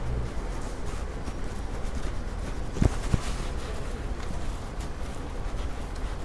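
Steady hiss of heavy rain, with two sharp knocks close together about three seconds in.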